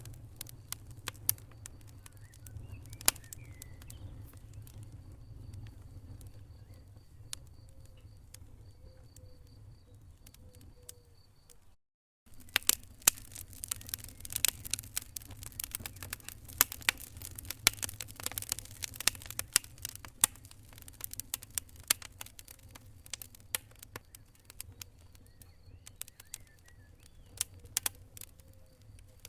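Wood fire in a fireplace crackling, with frequent sharp pops over a steady low rumble. The sound cuts out for a moment about twelve seconds in, and the crackling is busier after that.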